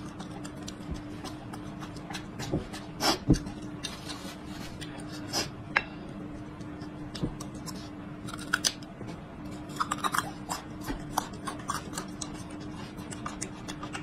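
Close-miked eating: bites and chewing of a raw garlic clove, with scattered crunches and wet mouth clicks over a faint steady hum.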